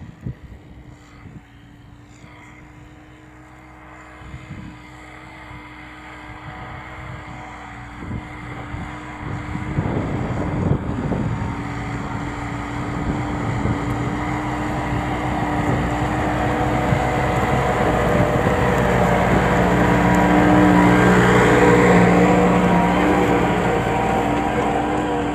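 New Holland farm tractor's diesel engine running under load, growing steadily louder as it comes closer, loudest about 22 seconds in, then easing slightly near the end.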